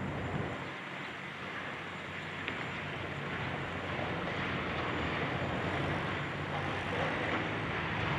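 Diesel engine of a high-reach demolition excavator running steadily, a low rumble under a wash of noise, with one small click about two and a half seconds in.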